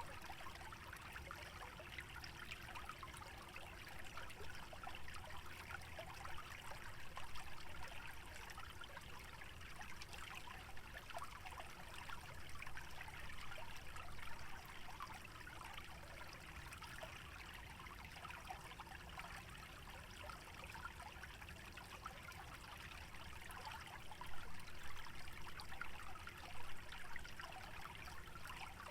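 Small stream trickling and gurgling, with a steady fine patter of water and a few slightly louder splashes near the end.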